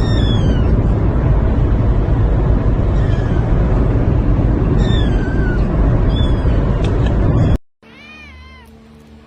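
Cat meowing: several short, high, falling mews over a loud steady rumble. After a sudden cut near the end comes one quieter, rising-and-falling meow.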